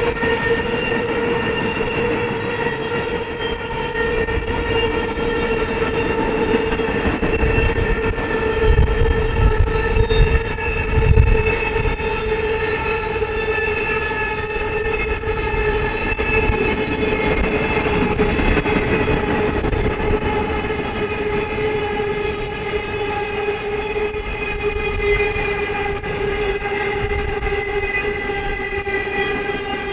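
Intermodal freight train cars rolling past, their wheels rumbling on the rails, with heavier rumbling about 8 to 12 seconds in. A steady, high-pitched ringing tone runs over the rumble and slowly sinks a little in pitch.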